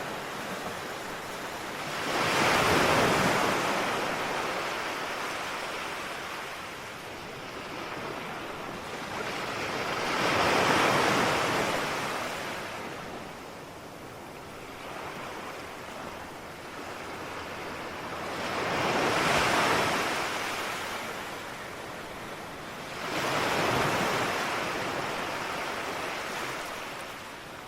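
Ocean waves: four waves swell, break and wash back out, with a steady hiss of surf between them.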